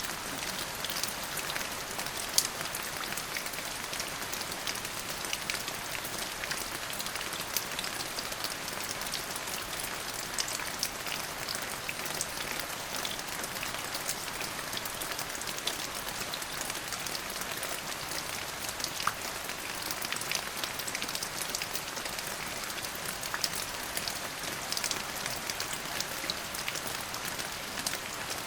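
Steady rain falling, a continuous hiss dotted with many sharp individual drop ticks.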